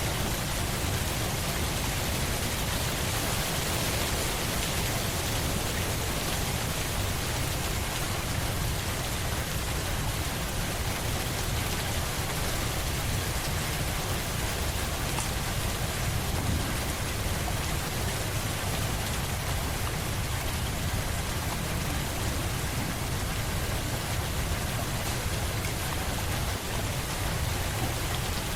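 Steady rain falling, an even hiss of drops on surfaces with a low rumble underneath.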